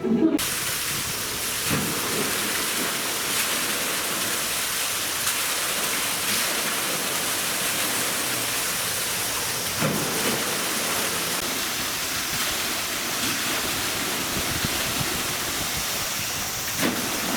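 Steady rush of falling water, even and unbroken, with a few faint brief sounds over it.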